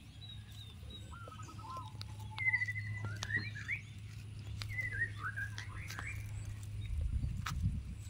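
Birds singing in short whistled phrases, some rising and some falling, over a steady low hum, with a few sharp clicks scattered through.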